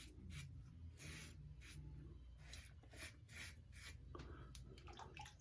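Faint, quick scraping strokes of a Wolfman WR2 safety razor cutting through lathered stubble, about two to three strokes a second.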